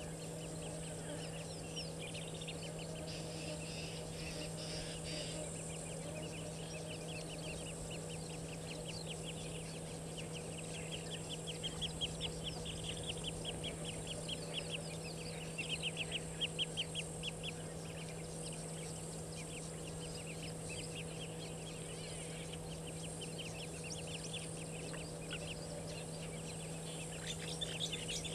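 Birds calling: runs of quick, repeated high chirps, loudest about halfway through and again near the end, over a steady low hum and a steady high hiss.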